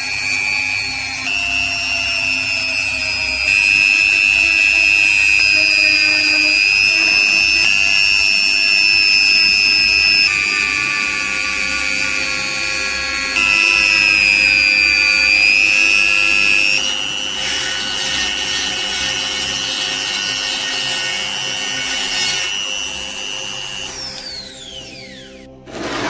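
A high-speed power tool running with a steady high whine, its pitch stepping up and down several times. Near the end the motor is switched off and spins down with a falling whine.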